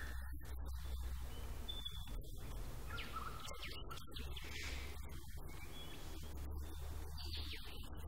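Wild birds calling with short, scattered chirps and brief high whistles, over a steady low rumble.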